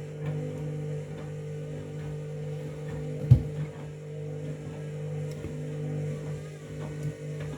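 Washing machine running with a bath mat in the drum: a steady motor hum, with a single loud thump a little over three seconds in.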